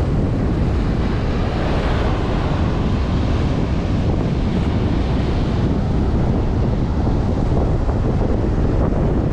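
Strong wind buffeting the microphone, a heavy low rumble with surf washing beneath it. The higher hiss swells about two seconds in and again around five seconds.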